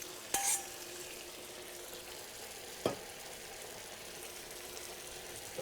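Chicken breasts sizzling in a skillet as they begin to poach in added marinade, a steady frying hiss. A brief louder burst comes just after the start, and a single sharp knock about three seconds in.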